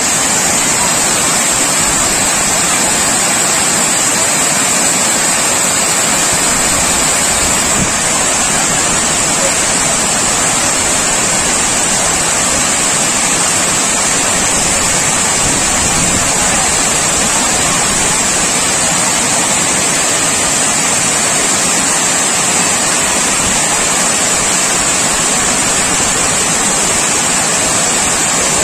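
Water rushing over an overflowing dam, a loud steady roar without a break.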